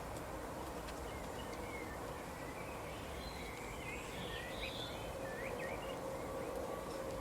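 Small birds chirping: a string of short, quick rising and falling chirps that clusters in the middle, over a steady background hiss with a faint low hum.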